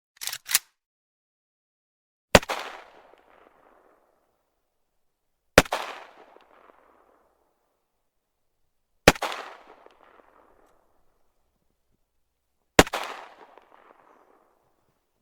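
AK-47 rifle firing 7.62×39mm rounds: a quick pair of shots at the very start, then four single shots about three to four seconds apart, each echoing away over a second or two.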